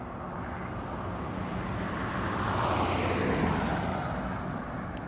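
A road vehicle passing close by, its tyre and engine noise swelling to a peak about three seconds in, then falling in pitch as it moves away.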